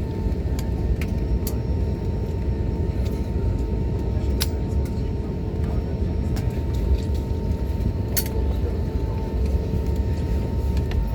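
Airliner cabin noise while taxiing: a steady low rumble with a faint steady whine, broken by a few light clicks.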